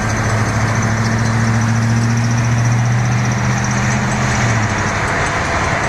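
Diesel locomotive engine running with a steady low drone over rumbling noise; the drone stops about four and a half seconds in.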